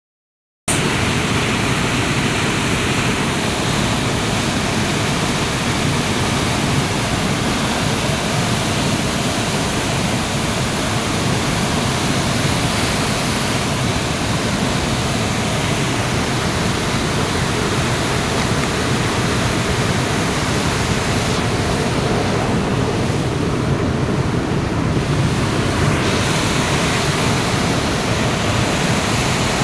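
River in heavy flood: fast, swollen water rushing in a loud, steady roar.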